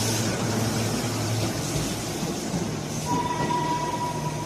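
Electric commuter train, JR East's Mato 11 set of E233-2000 series cars, running with a steady low hum and rail noise; a steady high whine sets in about three seconds in.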